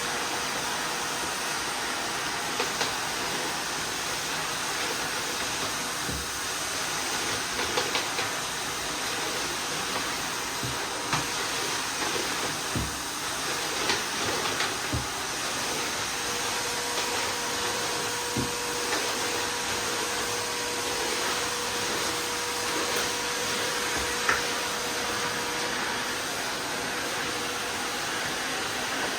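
Miele vacuum cleaner running steadily with a full, even rush of suction, and scattered short clicks and crackles as crunchy debris is sucked up. A faint steady tone runs through the motor noise for a stretch in the second half.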